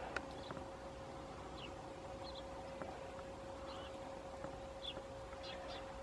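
Small birds giving short, high chirping calls, scattered about a dozen times and some sliding down in pitch, with a few sharp clicks among them, over a steady faint hum.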